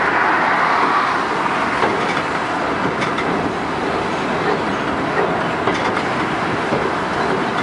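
Train running steadily along the track, heard from on board: a continuous rolling rumble with a few faint clicks of the wheels over rail joints.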